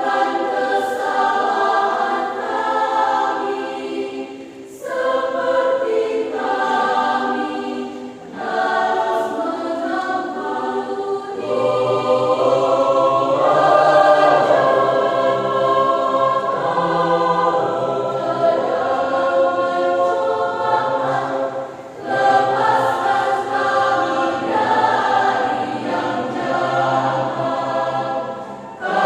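Church choir singing in several parts, in phrases broken by short pauses; a low bass line comes in about twelve seconds in.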